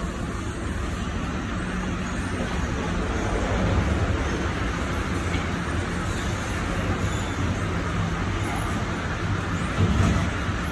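Steady rumble of road vehicle and traffic noise from a vehicle on the move. It swells briefly about four seconds in and again near the end.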